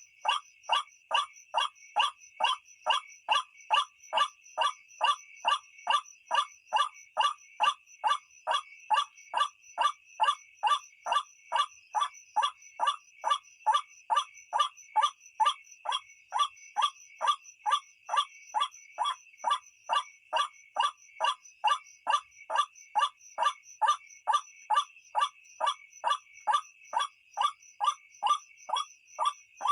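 White-breasted waterhen (ruak-ruak) call, a recording used as a lure call, repeating without pause at an even rate of about two and a half short, harsh notes a second. A steady high tone runs underneath.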